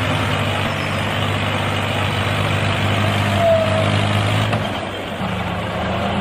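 A DIY mini tractor's small motor running steadily, settling to a lower, different pitch about four and a half seconds in, with a brief squeak about three and a half seconds in.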